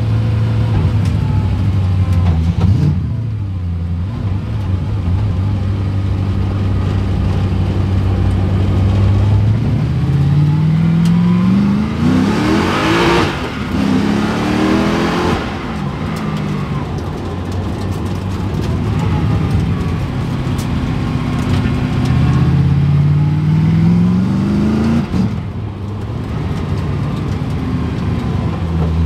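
Car engine running, revving up twice with a rising note. Around the middle a vehicle passes close by with a loud rush.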